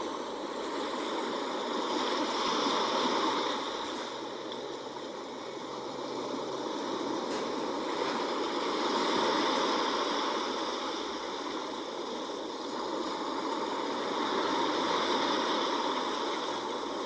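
Sea waves washing in, a steady rush of surf that swells and eases about every six seconds.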